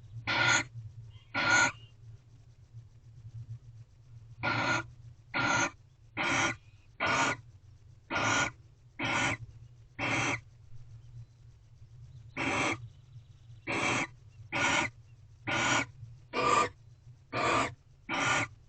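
A barn owl in a nest box gives short, harsh, hissing calls, repeated roughly once a second in runs, with two pauses of a couple of seconds, about sixteen calls in all. A steady low electrical hum runs underneath.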